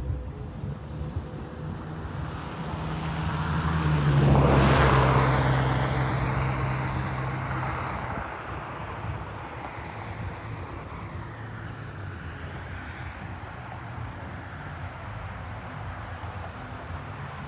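A car driving past: its engine grows louder, is loudest about four to five seconds in, then fades away, leaving a steady outdoor background hum.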